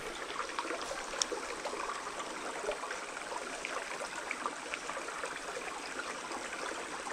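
Creek water babbling steadily over a shallow bed, with one light click about a second in.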